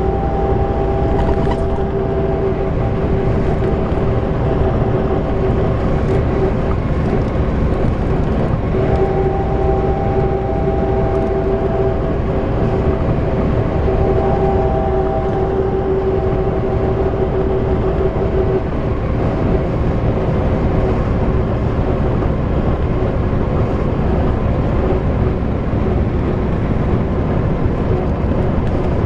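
YaMZ diesel engine of an Ikarus-250.95 bus running steadily under way, a constant heavy rumble with a steady whine on top that fades out and back in a couple of times.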